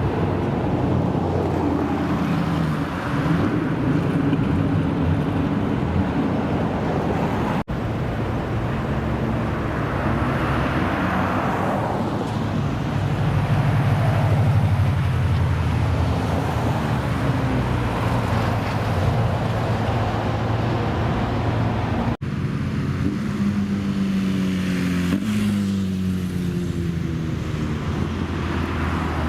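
Car engines running and revving, one car after another, with pitch rising and falling as the throttle is blipped. The sound breaks off abruptly twice, about 8 seconds in and again about 22 seconds in, as one car's sound gives way to the next.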